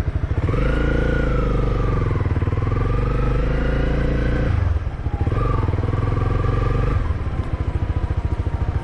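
Motorcycle engine running: a pulsing idle beat at first, then pulling at steadier, higher revs from about half a second in. It eases off briefly around five seconds and settles back to a slower pulsing beat after about seven seconds.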